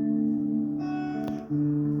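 Song accompaniment on guitar: held, plucked notes between sung lines, the chord changing about one and a half seconds in.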